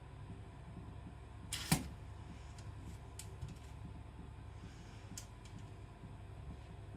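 A single sharp knock about two seconds in, followed by a couple of faint clicks, over a low steady hum.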